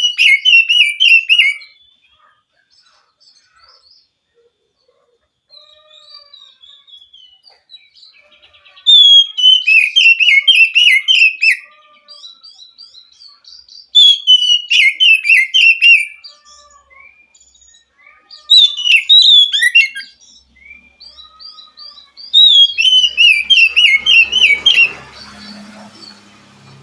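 Oriental magpie-robin (kacer) singing. Loud phrases of quick whistled and chattering notes that slide downward come in five bouts about four to five seconds apart, with softer scattered notes between them.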